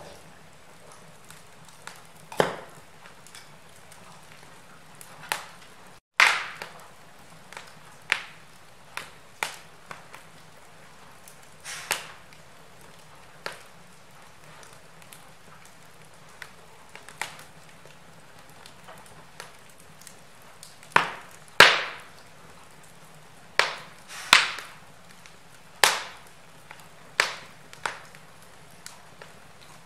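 Wood fire burning in a fireplace: irregular sharp pops and snaps of the logs, some loud, over a faint steady hiss, with a momentary dropout about six seconds in.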